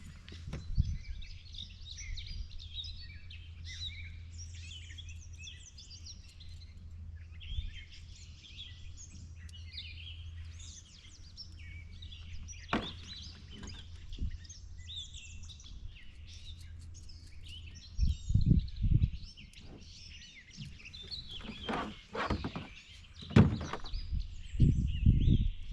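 Birds chirping and singing over a steady low hum, with a run of loud knocks and thumps in the last third, as of gear being handled.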